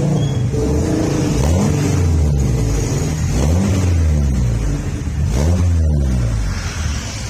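Honda Accord engine blipped about three times through an aftermarket racing exhaust muffler, each rev rising and falling back to a steady idle.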